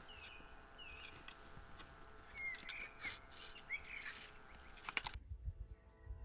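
Wild songbirds chirping: about five short, separate calls over a faint outdoor background, with a few soft clicks. About five seconds in, the background changes abruptly to a quieter one.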